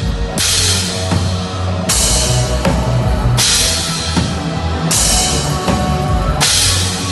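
Rock band playing live, led by a drum kit with cymbal crashes about every second and a half over bass and guitar.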